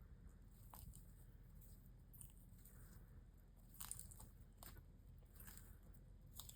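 Tortoises biting and chewing dandelion leaves: faint, crisp crunches at irregular intervals of about a second, the loudest about four seconds in, over a low steady hum.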